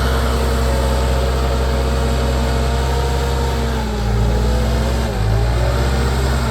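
Heavy machine's diesel engine running at a steady idle. Its pitch dips and wavers briefly about four seconds in and shifts again about a second later.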